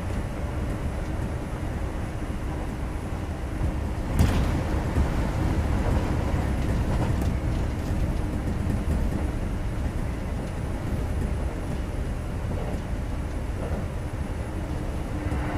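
Kintetsu 2430 series electric train running, heard from inside the passenger car: a steady low rumble of wheels on rail with faint steady motor tones, and one sharp knock about four seconds in.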